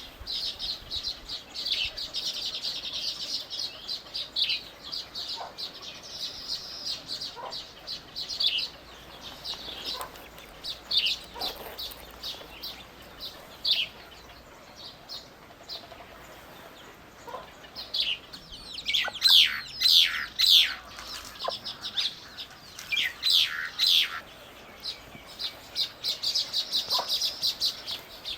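Small birds chirping and twittering in quick high notes, with a louder run of sharp, downward-sliding calls a little past the middle.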